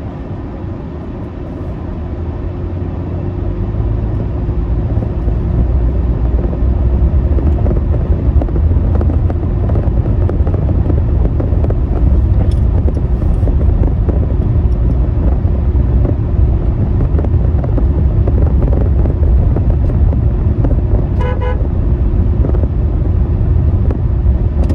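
Car engine and road rumble, steady and low, growing louder over the first few seconds. A short pitched beep sounds about 21 seconds in.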